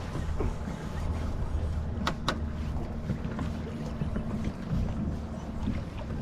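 Steady low hum of a fishing boat's motor under water and wind noise, with two sharp clicks a quarter second apart about two seconds in.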